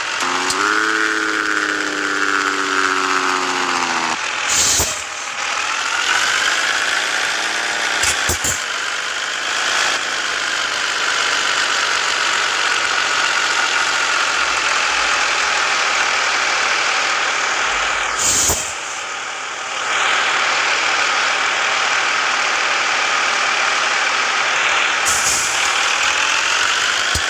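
Scania S 450 truck's inline-six diesel engine running under way, its note rising and falling several times, with a few short sharp sounds in between.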